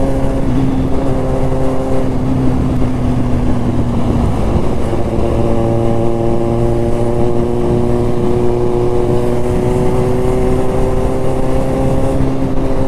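Motorcycle engine running at a steady cruise from the rider's seat, its pitch holding, then shifting about four seconds in and creeping slowly upward as the bike gently speeds up, over a constant rush of road noise.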